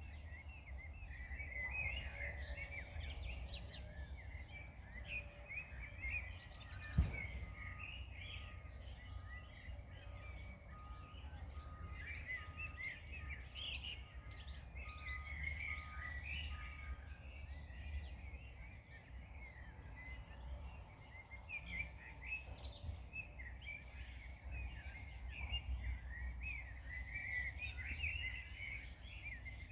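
Many small birds singing and chirping together over a steady low rumble. A single sharp click about seven seconds in, followed by a run of short, evenly spaced notes at one pitch lasting about ten seconds.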